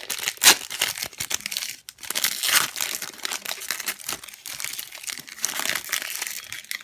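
Foil wrapper of a Pokémon TCG booster pack crinkling and tearing as it is opened, with a sharp loud crackle about half a second in.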